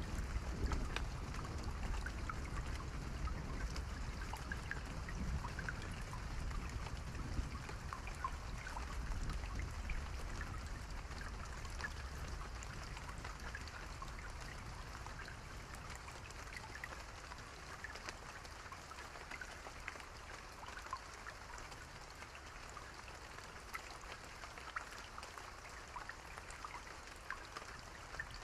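Steady rain with many individual drops pattering. A low rumble under it fades away over the first half, and the rain grows slightly quieter.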